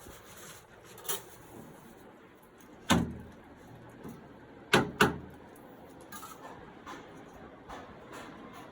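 Four sharp knocks: one about a second in, a heavier one about three seconds in, and the loudest pair close together near five seconds.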